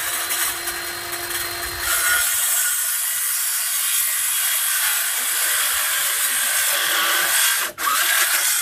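Power saw cutting through a 2x4 board. The motor whine comes first, then a steady, louder cutting noise from about two seconds in, with a brief dip near the end.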